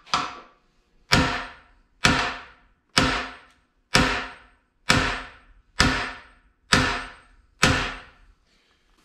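Heavy hammer blows on metal, about one a second, each ringing briefly, driving a bearing into a CAT D4D bulldozer's engine block.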